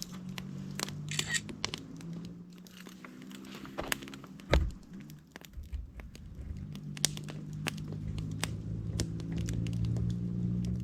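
Wood campfire crackling, with many irregular sharp pops and snaps over a low steady hum. There is one dull thump about four and a half seconds in.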